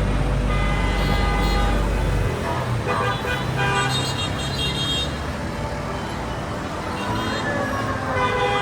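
Road traffic with vehicle horns sounding in held tones at several pitches, over a low rumble that stops about two seconds in.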